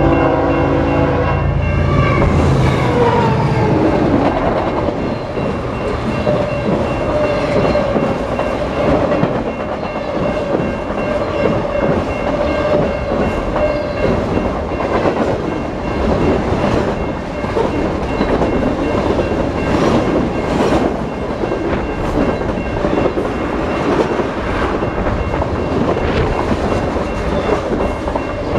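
CN train passing close by. Its horn sounds at the start and cuts off about a second in. The locomotive's engine then falls in pitch as it goes by, giving way to a steady rumble and clickety-clack of the cars on the rails, with a steady whine for several seconds in the middle.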